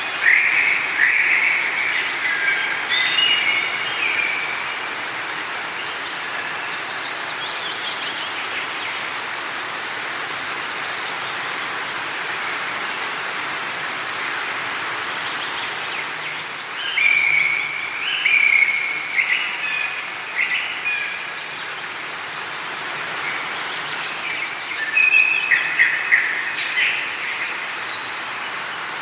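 Steady rush of running water, with songbirds singing short chirping phrases over it at the start, again about halfway through and near the end.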